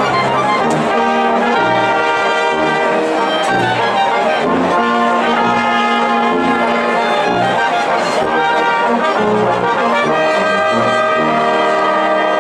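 Brass band playing a tune: trumpets and trombones carry the melody over a low bass line.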